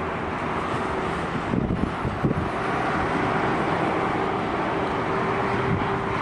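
Street traffic noise with vehicle engines running; a steady engine hum comes in about two and a half seconds in.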